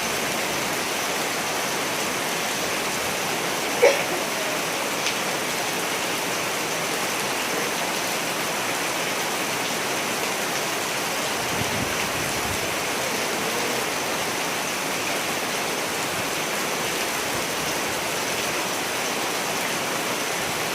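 Steady rain falling, a dense even hiss. A single sharp click about four seconds in stands out above it, with a fainter one a second later.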